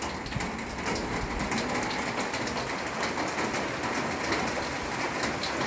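Steady heavy rain falling on roofs, with water leaking from a rusted-through gutter and dripping onto a small roof below.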